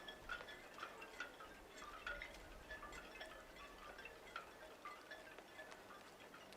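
Faint, high tinkling chime notes, several a second at irregular spacing, over a low hiss.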